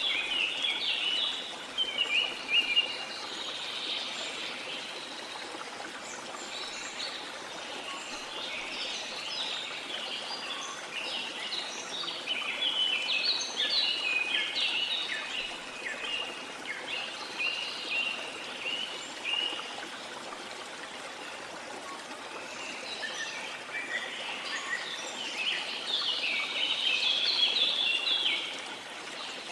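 Birds chirping and singing in several bouts of rapid, high chirps over the steady rush of falling water.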